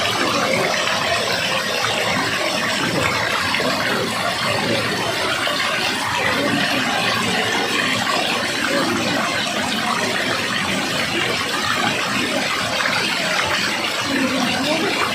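Waterfall rushing in a steady, even roar of water.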